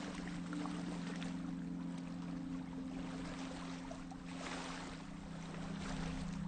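Sea waves washing up and drawing back over a pebble beach, the stones clicking and rattling, with a bigger surge about four and a half seconds in. A steady low hum runs underneath.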